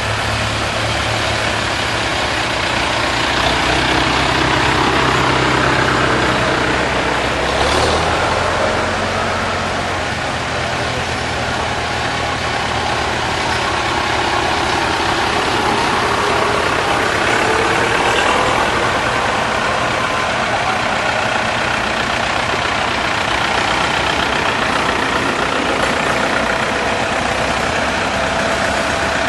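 Vintage tractor engines running at low speed, one after another, with their engine note shifting as they go by.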